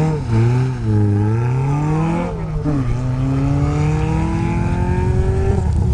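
Race car engine revving hard. Its pitch wavers, drops sharply a little over two seconds in, then climbs steadily for about three seconds before dropping again near the end.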